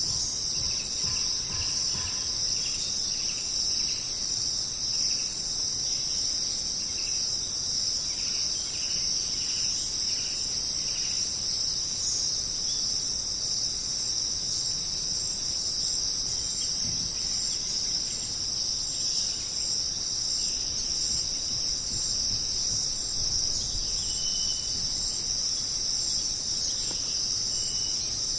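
Steady, high-pitched chorus of insects in jungle ambience, going on without a break. Through the first dozen seconds, fainter short chirps repeat about twice a second, and a couple of brief higher notes come near the end.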